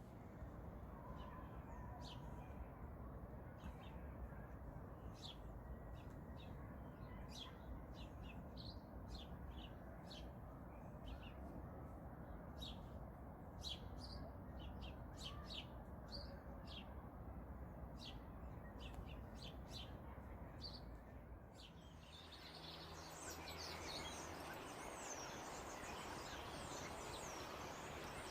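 Small birds chirping, short sharp high calls at irregular intervals over a low background rumble. About 22 seconds in, the recording changes to a denser mix of bird calls with more hiss.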